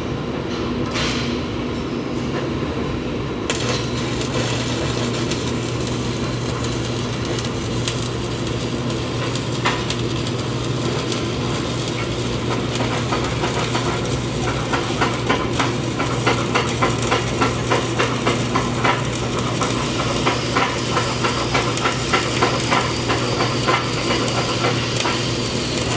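Stick-welding arc burning a 3/32-inch 7018 electrode: a steady crackling sizzle with a hum, starting about three seconds in. In the second half it pops in a regular rhythm, about twice a second.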